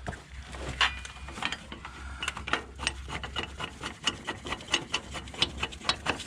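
Hand ratchet wrench clicking as it runs a flanged nut or bolt down, a steady series of sharp clicks about two or three a second.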